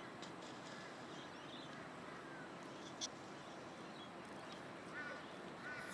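Faint background noise with a single click about three seconds in and a few short, faint chirps near the end.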